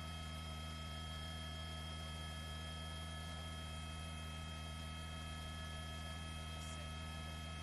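Steady electrical hum with several faint high steady tones over it, unchanging throughout.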